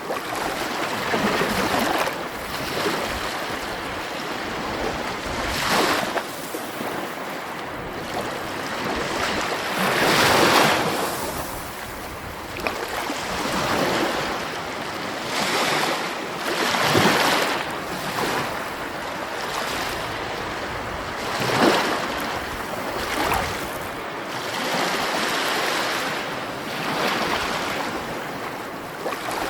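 Sea waves washing and breaking: a steady rush of surf that swells into louder surges every few seconds.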